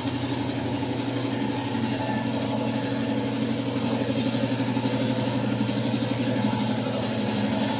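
Air compressor running steadily with a constant hum, under an even hiss of air from a spray gun laying on primer.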